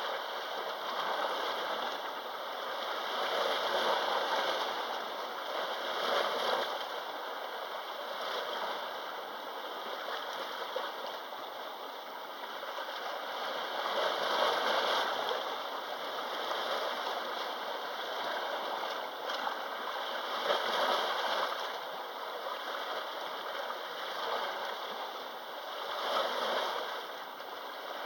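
Small sea waves washing onto the shore, the wash swelling and ebbing every few seconds.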